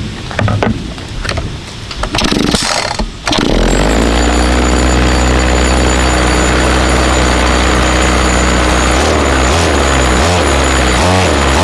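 A small lawn mower engine starts about three seconds in, after a few seconds of knocking and rattling, and then runs steadily. Near the end the revs rise and fall several times.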